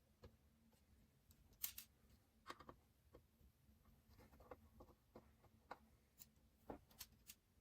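Faint, scattered clicks and light scrapes of hands handling small computer hardware and cables, the sharpest about 1.7 s in, against near silence.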